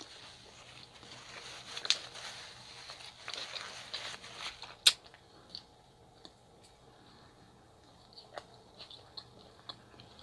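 Close-miked chewing and mouth sounds of someone eating a chicken gyro, with a busy stretch of soft smacks and crunches and one sharp click about five seconds in. After that it goes quieter, with only scattered small clicks as the chewing slows.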